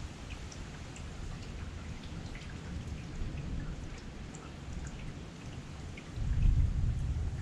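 Heavy rain falling steadily, with single drops ticking sharply on nearby surfaces. About six seconds in, a low rumble swells up and is the loudest part.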